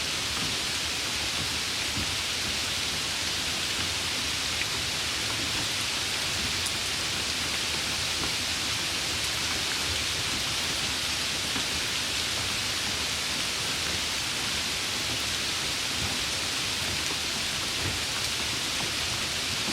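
Steady rain falling, an even hiss heaviest in the upper range, with no change in strength.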